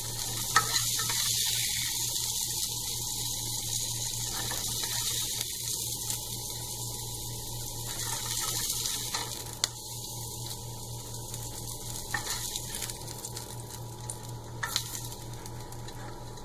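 Onion rings sizzling in hot oil in a nonstick pan as a spatula scoops them out, with a few sharp clicks of the spatula against the pan. The sizzle grows softer about two-thirds of the way through as the pan empties.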